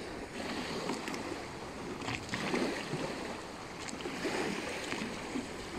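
Water lapping and sloshing, with a few faint knocks.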